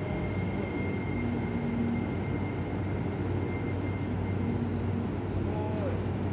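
Keisei 3000-series electric train creeping into the platform and drawing to a stop, with a steady rumble and hum. A thin high tone fades out about four and a half seconds in, and there is a short falling squeal shortly before the end.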